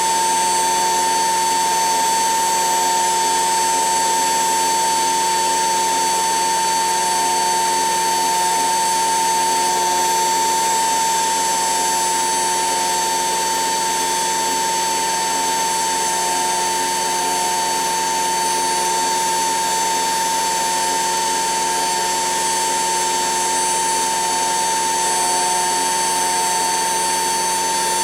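HUSTOO 775 DC motor in a modified PlayGo toy washing machine, driving the drum through a pulley and running at a steady speed with a constant high whine.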